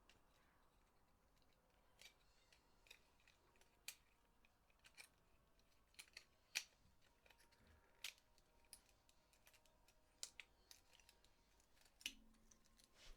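Scattered faint clicks and taps of a PS4 DualShock 4 controller's small plastic parts being handled and fitted, a dozen or so irregular ticks with the sharpest one just past the middle.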